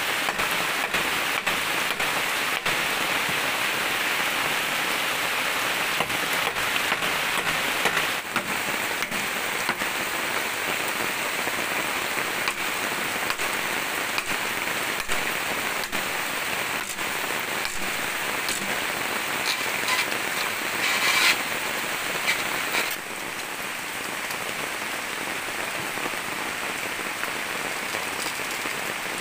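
Steady rain falling on leaves and the bamboo platform. In the first several seconds a run of sharp knocks from a machete striking bamboo, and a brief louder noise about two-thirds of the way through.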